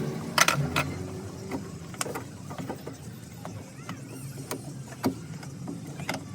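Several sharp mechanical clicks and knocks at uneven intervals, the loudest near the start and again about five seconds in, over a low steady hum.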